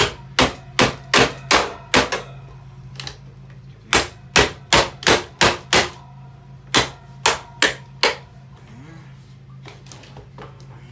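Hammer blows striking a table fan in three quick runs of about four to six hits each, with a short ringing after the strikes. A steady low hum runs underneath.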